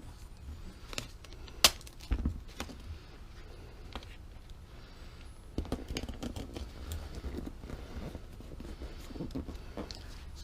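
Close handling noises of tape and repair materials being worked by hand: scattered clicks, taps and rustling, with a sharp click about a second and a half in and a knock just after two seconds, then a busier run of small taps and rubbing.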